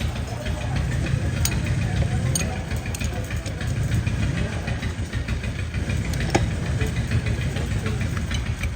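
A machine runs steadily, like an idling engine, with a low drone. A few sharp metallic clicks or taps sound over it.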